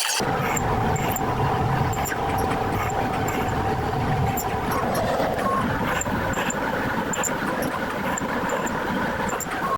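Felder Profit H500 five-axis CNC machining centre running: a steady mechanical hum with scattered faint high ticks.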